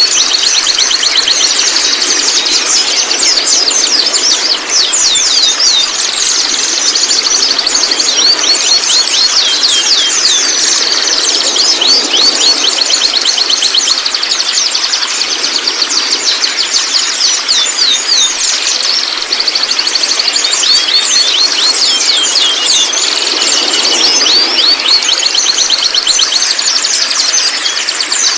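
Young white-rumped shamas twittering: a continuous stream of fast, high chirps and short sweeps, in dense runs with brief lulls.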